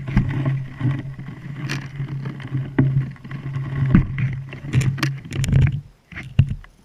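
A steady low hum from a motor, with scattered knocks and clicks over it; the hum stops about six seconds in.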